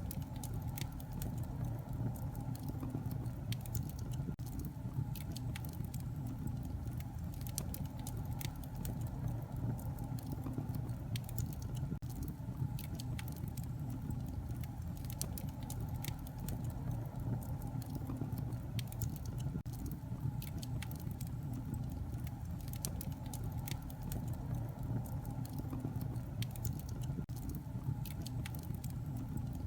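Wood fire burning in a fireplace, with many small sharp crackles and pops scattered irregularly over a steady low rumble of the flames.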